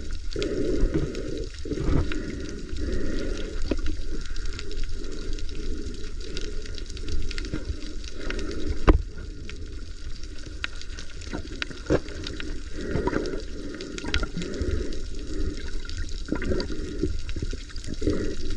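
Sea water sloshing and bubbling around a camera held in the water, with irregular swells and occasional knocks.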